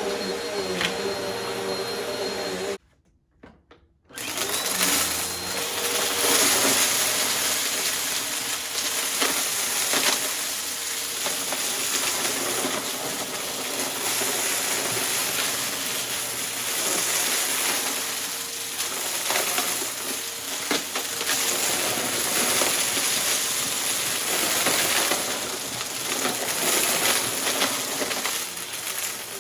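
Bissell upright vacuum cleaner running on rugs, picking up a dry mess with a constant crackle of debris rattling through it. About three seconds in the sound drops out for a second, then the vacuum runs on.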